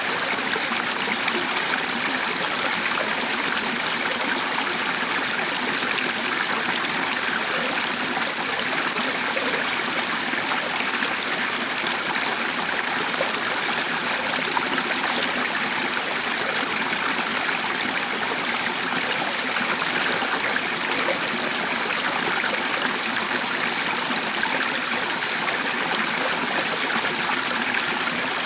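Flowing water running steadily: a continuous, even rush with no breaks.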